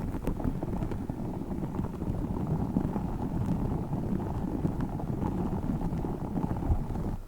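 Tiny spiky orbeez-filled squishy balls being squeezed and rolled in the hands, a dense, continuous squishing crackle.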